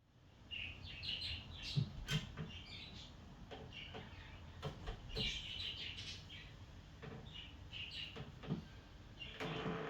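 Birds chirping, short repeated calls, with a few light knocks and clicks of handling.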